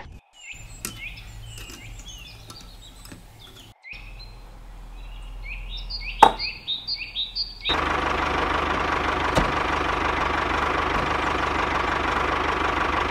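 Birds chirping in quick runs of short, falling chirps over a low hum. About eight seconds in, a loud, steady mechanical whirring noise starts abruptly.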